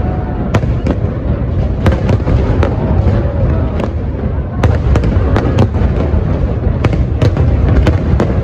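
Fireworks display going off: many sharp bangs at irregular intervals, several a second at times, over a continuous low rumble of bursts.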